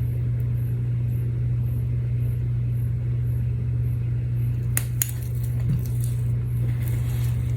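A steady low electrical hum with two light clicks in quick succession about five seconds in.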